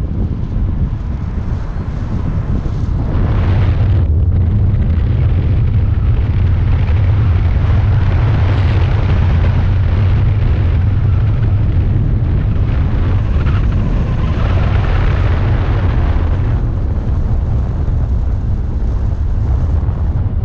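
Loud wind buffeting on the microphone over a steady low rumble, as when travelling in a moving vehicle.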